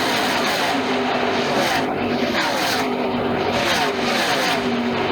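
NASCAR Camping World Truck Series race trucks' V8 engines running at speed, several at once. Their pitch slides down as one truck after another passes.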